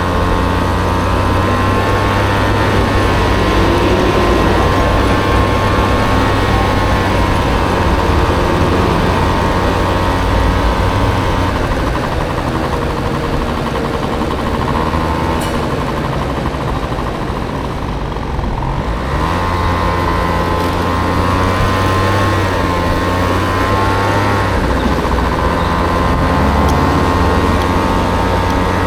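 Honda Motocompo scooter with a swapped-in Honda Dio engine running on the move, its engine note wavering up and down with the throttle. The note drops away briefly about eighteen seconds in, then picks up again.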